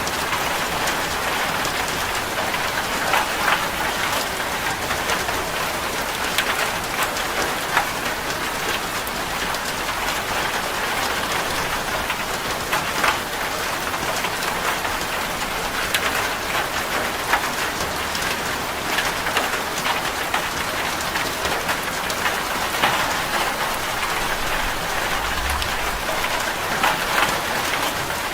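Heavy rain falling steadily on a zinc sheet roof: a dense, even patter with many sharper individual drop-hits scattered throughout.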